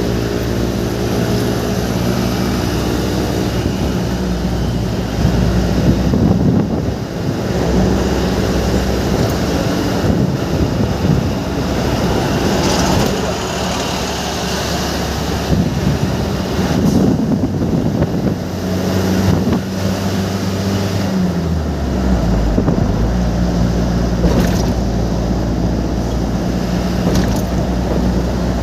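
Vehicle engine running while driving on a wet road in the rain, under a steady hiss of rain and tyre noise. The engine note shifts about two-thirds of the way through.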